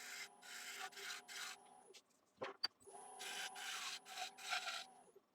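Bowl gouge shear-scraping the outside of a spinning ash bowl on a wood lathe, taking very light shavings in a series of short strokes over a faint motor hum. The cutting stops briefly about two seconds in, with a couple of clicks, then starts again.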